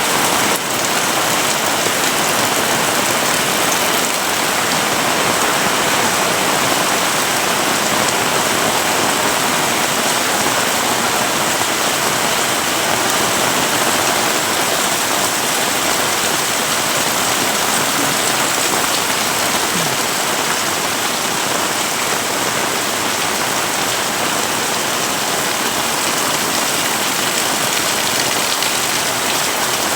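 Heavy rain falling steadily, a dense, even hiss of rain striking surfaces.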